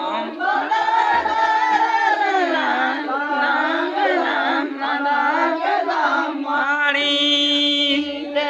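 Several voices singing a Mundari Karam song together in a loose chorus, with a few low thuds underneath and one voice holding a high note near the end.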